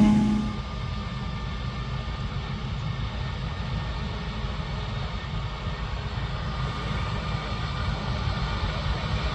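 A loud engine note cuts away in the first half second, leaving harvest machinery running steadily as a low rumble at a distance.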